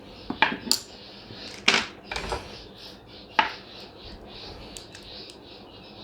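Several sharp clicks and light metallic taps of small tools and parts being handled on a workbench during soldering work, the loudest about two seconds in, over a steady faint hiss.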